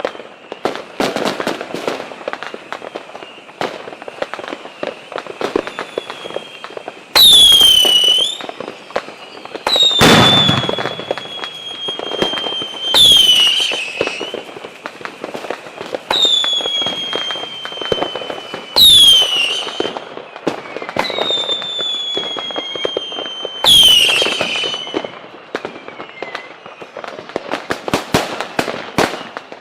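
Fireworks going off: a steady crackle of firecrackers, with a loud shrill whistle every five or six seconds that drops quickly in pitch. Between them come long whistles that slowly sink in pitch, and there is one heavy bang about ten seconds in.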